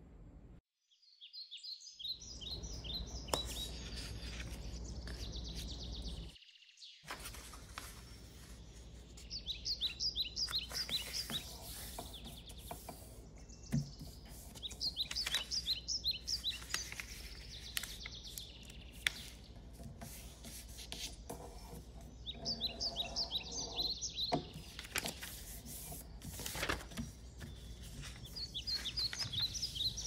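A bird chirping in quick high trills, in runs of a second or two every few seconds. Under it, sheets of paper rustle and crease while being folded on a table, with the sound cutting out briefly twice near the start.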